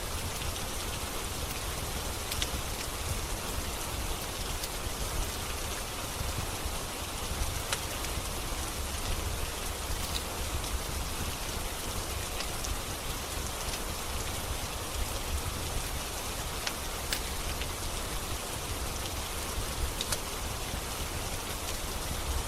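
Steady rain with a low rumble beneath it, and a few sharp single pops from a crackling log fire scattered through it.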